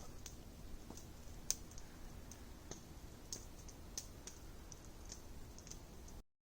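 Wood fire crackling faintly, with irregular sharp pops and snaps and one louder pop about a second and a half in. The sound cuts off abruptly near the end.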